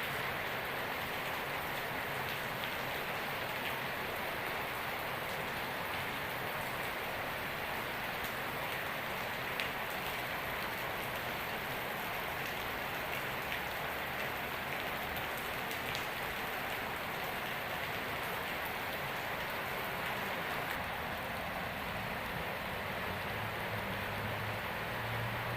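Heavy rain pouring down steadily, an even hiss with scattered ticks of drops. A low steady hum joins in near the end.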